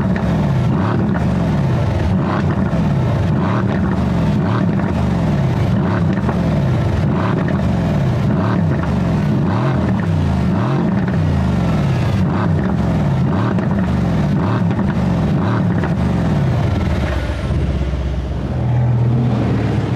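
Loud car engine and exhaust note with a low pitch that keeps sliding down in repeated sweeps, settling into a steadier tone near the end.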